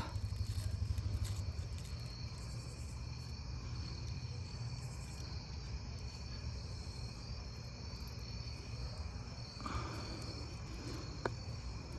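A steady, faint chorus of insects, with a brief rustle about ten seconds in and a single click just after.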